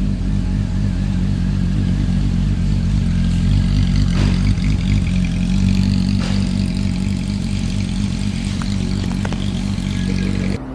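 A motor running steadily, a low, even drone with a hiss over it and a few faint clicks, cutting off suddenly near the end.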